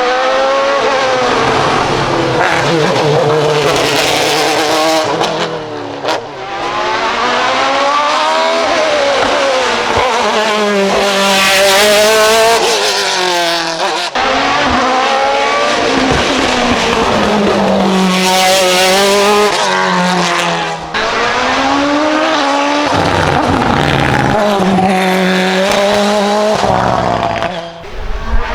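Hill-climb race car engines accelerating hard, the pitch climbing through the revs and falling back at each gear change, over and over. There are sudden breaks in the sound about every seven seconds.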